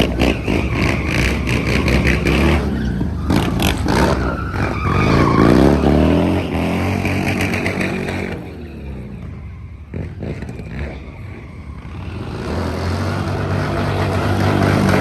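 Motocross dirt bike engine revving hard, its pitch sweeping up and down. It falls away to a quieter stretch a little past halfway, then builds again near the end.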